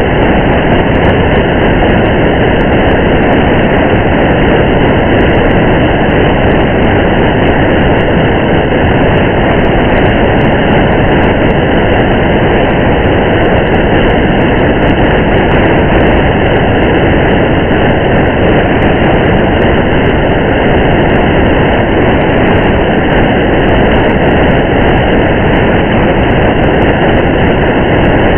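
Steady, muffled noise of a car driving through rain: road and rain sound blended into one even rumble, with faint scattered ticks.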